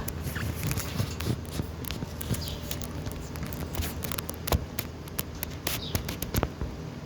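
Pet parrot pecking and nibbling, an irregular run of sharp clicks and taps with a few brief faint chirps.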